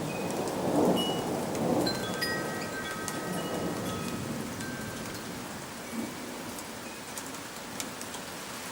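Thunder rumbling, loudest about one and two seconds in, over steady rain. A wind chime rings a few scattered notes between about two and five seconds in.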